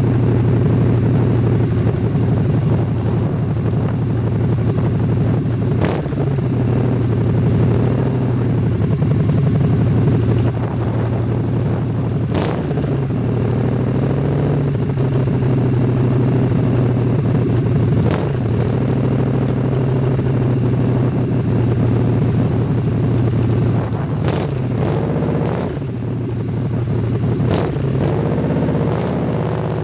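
A motor vehicle's engine running while under way, its pitch dipping and recovering several times, with a few sharp ticks heard over it.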